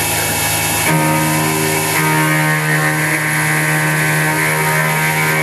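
CNC-controlled X2 mini mill milling 6061 aluminium: a loud, steady machine whine made of several steady tones over a hiss. The set of tones shifts abruptly about a second in and again about two seconds in.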